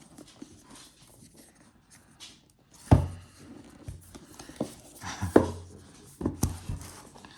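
Cardboard retail box of an iPad mini being handled and tugged open: soft rustling and scraping, with sharp knocks about three seconds in, again about five seconds in and near the end.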